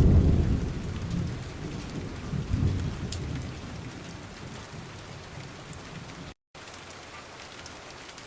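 Steady rain with rolling thunder: a deep rumble at the start swells once more and fades away over the first four seconds, leaving the rain hiss alone. The sound cuts out for a moment about six seconds in.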